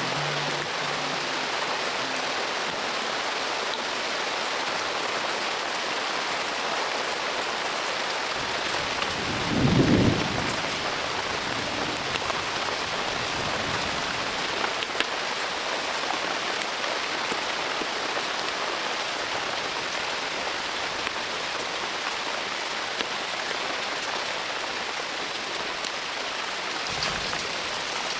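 Heavy rain falling steadily, with one brief rumble of thunder about a third of the way through.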